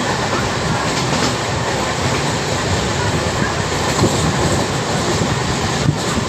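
Passenger train running at speed, heard from inside the coach: a steady rumble and rush of wheels on the track, with a few faint clacks from the rail joints.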